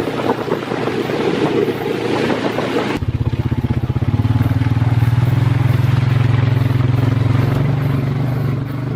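About three seconds of rough rushing noise, then a sudden change to a motor vehicle's engine running steadily and loudly at a constant low speed.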